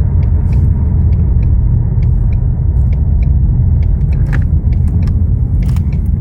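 Steady low rumble of a moving car's road and engine noise, with scattered light clicks.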